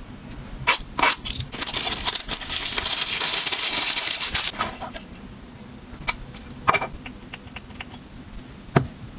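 Items being handled and set down: a few sharp clicks and taps, then about three seconds of steady high hissing rustle, then more light clicks and a single dull knock near the end.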